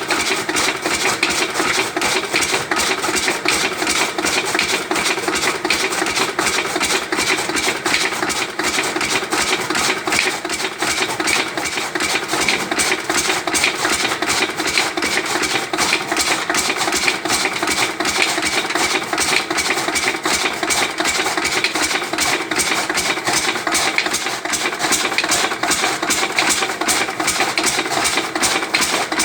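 Lister-type 8 hp single-cylinder diesel engine running steadily under load, with a rapid, even beat of firing knocks, driving a belt-driven chaff cutter that chops sugarcane fodder.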